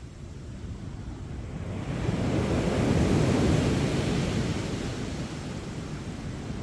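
Sea waves breaking on the beach. A wave surges in about two seconds in, peaks, then washes back and subsides, over a steady low rumble of surf.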